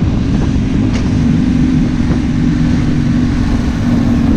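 Yamaha Ténéré 700's parallel-twin engine running steadily under way as the rally bike rides off from the start, mixed with low wind rumble on the unshielded microphone.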